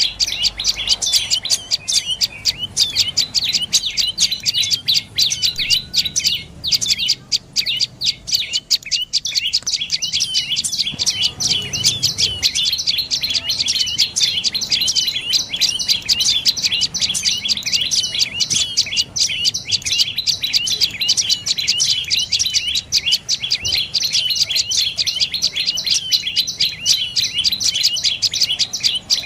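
Dark-necked tailorbird calling: a fast, continuous string of short, high, sharp notes, several each second, with a brief break about six and a half seconds in.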